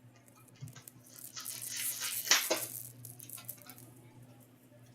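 Trading cards being handled and slid across one another, a faint rustle with one sharp click a little past the middle.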